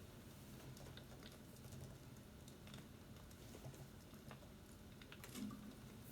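Near silence with faint, irregular light clicks and taps, a few a second, over a low steady hum.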